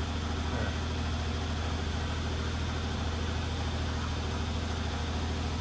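Steady low mechanical drone from a running machine, with a fine even pulse and a constant hiss, unchanging throughout.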